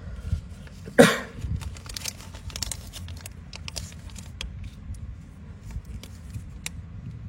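Solid brass Zippo lighter being handled: one sharp metallic clink about a second in, then a string of light clicks and scrapes.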